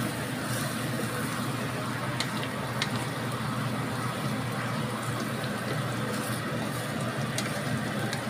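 Blended chili paste sizzling steadily in hot oil in a stainless steel wok as it is stir-fried, with a few light clicks of the stirring spoon against the pan. The paste is being fried until cooked and fragrant.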